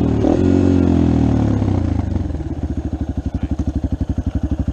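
Dirt bike engine running. Its revs sag over the first two seconds, then it settles into an even, fast-pulsing idle.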